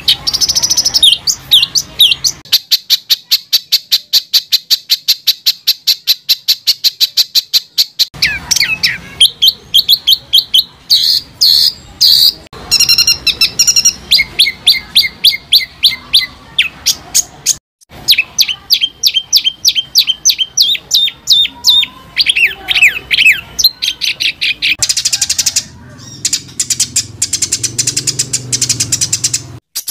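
Songbird song made of dense, harsh runs of rapidly repeated sharp notes and trills, very fast in places, with several recordings spliced one after another.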